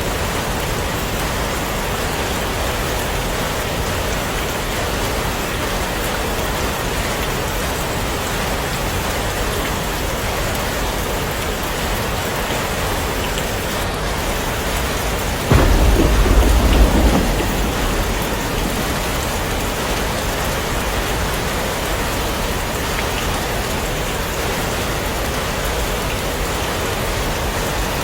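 Steady heavy rain falling, with a sudden deep rumble of thunder about halfway through that fades away over about two seconds.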